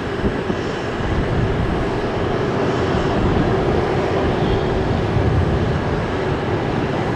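Jet airliner's engines running loud and steady, a continuous rush with a low rumble beneath it.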